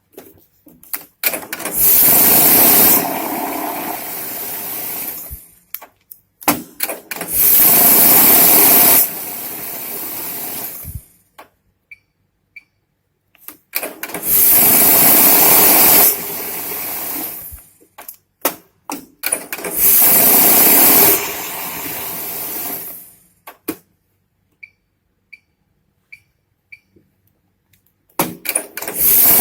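Glory GNH-710 banknote counting machine running four counting cycles. Each is a loud whirr of about two seconds that drops to a quieter run-down for about two more before stopping, with clicks in the gaps. A fifth cycle starts near the end.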